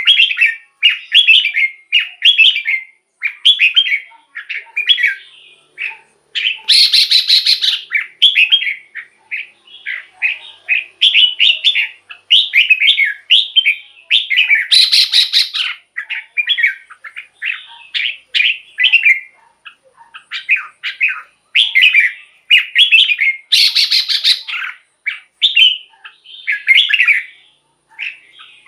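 Red-whiskered bulbul singing a steady run of short, quick, warbling phrases. Three louder, rasping notes stand out, roughly eight seconds apart.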